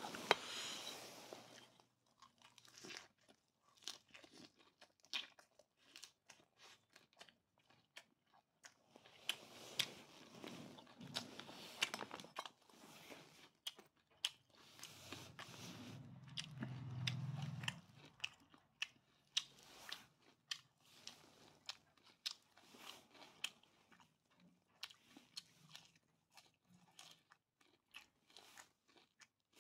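A man chewing grilled duck meat wrapped in fresh herb leaves, bite after bite, making many short sharp mouth clicks, irregular and often less than a second apart.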